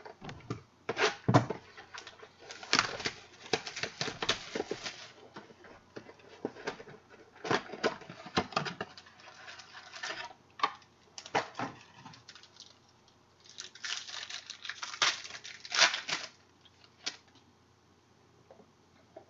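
Trading cards and their plastic packaging being handled: irregular bursts of rustling and sharp clicks, with short quiet gaps between them.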